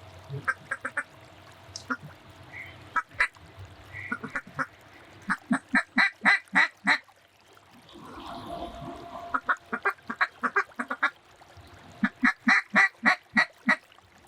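Duck call blown by a hunter to bring in circling ducks: three strings of rapid quacks, each of about eight to ten short notes, with brief pauses between them.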